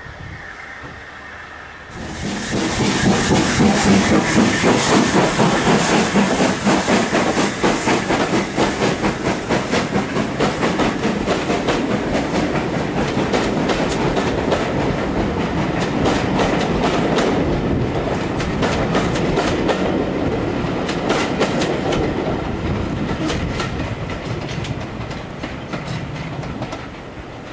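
Heritage passenger coaches running past close by, their wheels clattering rhythmically over the rail joints. The sound starts abruptly about two seconds in and fades as the train draws away.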